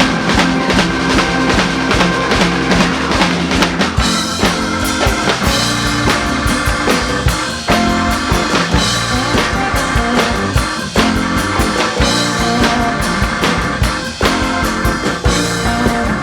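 Live rock band playing an instrumental groove, with the drum kit out front: bass drum, snare and rimshots. The band fills out about four seconds in.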